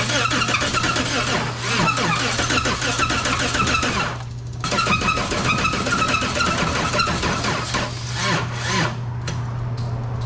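Toyota Corolla four-cylinder engine being cranked on the starter in three tries, two of about four seconds and a short one near the end, without catching. The worn engine has just been freed up after seizing on Purple Power degreaser and has had some oil put back in.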